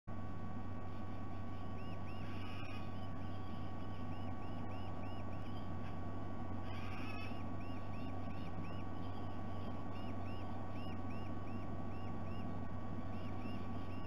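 A short, high bird call repeated about two to three times a second over a steady low electrical hum, with two brief noisy bursts about two and a half and seven seconds in.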